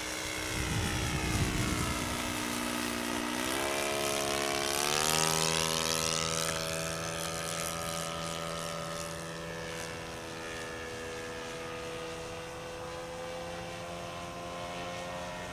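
Model airplane's ASP .61 glow engine and propeller in flight. Its note rises in pitch a few seconds in, then holds a steady high buzz, much of it at wide-open throttle.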